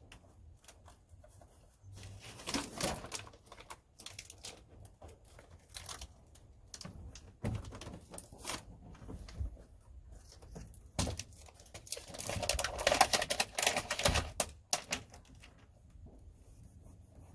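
Sheets of self-adhesive sound deadener being handled and laid down: crinkling, peeling of the backing paper and scattered light taps, with a longer burst of crackling and tearing about twelve seconds in.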